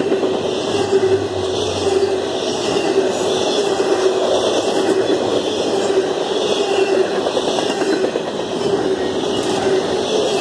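Freight train of double-stack container cars rolling past close by: a loud, steady rumble and rattle of wheels on rail, with a steady tone running through it.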